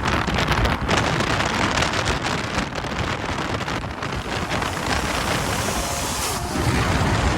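Vehicle on the move with rough wind noise buffeting the microphone over road noise.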